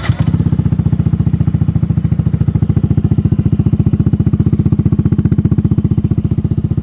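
Yamaha NMAX scooter's single-cylinder engine, fitted with a Pro Liner Max 2 aftermarket racing exhaust, catching right at the start and then idling steadily with an even, rapid pulsing exhaust beat.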